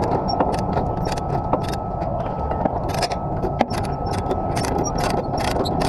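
A truck engine running steadily with a faint steady whine, while many sharp metallic clinks and rattles sound over it.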